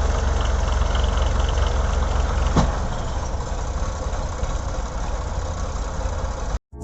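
Tractor's diesel engine running steadily, with one sharp click about two and a half seconds in. The sound cuts off abruptly near the end.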